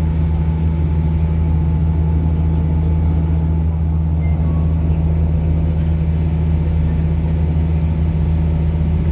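An engine running steadily with a deep, unchanging hum.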